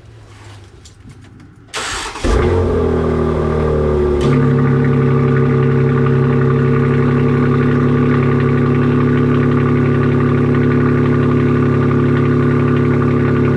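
Cold start of a BMW X3 M Competition's twin-turbo inline-six. It cranks briefly about two seconds in and catches with a loud flare. About two seconds later it settles into a steady, raised cold idle.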